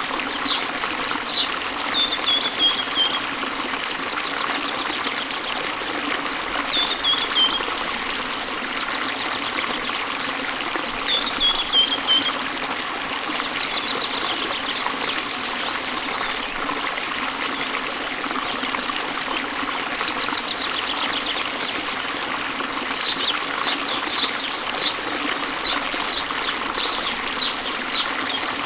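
Steady rush of falling water from a waterfall, with birds singing over it: a short falling chirped phrase three times in the first half, then a run of quick high notes near the end.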